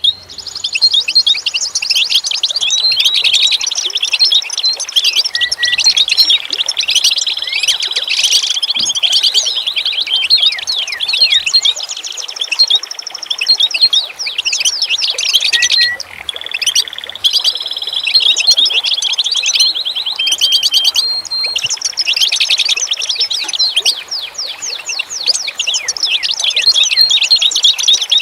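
A chorus of birds chirping and trilling: many rapid high notes overlapping without a break, with some longer held trills among them.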